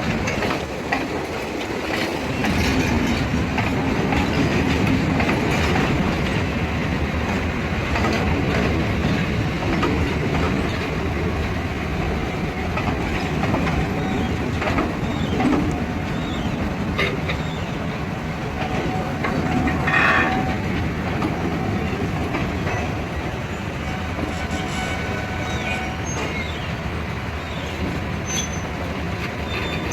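Freight train of rail tank cars rolling past, with a continuous rumble and the clatter of wheels over rail joints. Faint squealing tones come in during the second half.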